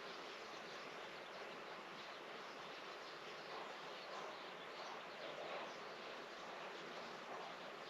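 Faint, steady outdoor garden ambience: an even hiss with small high-pitched flecks of sound scattered through it.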